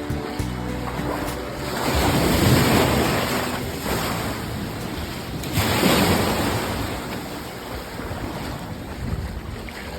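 Rough surf breaking and washing up the beach, louder as waves come in about two seconds and six seconds in, with wind buffeting the microphone.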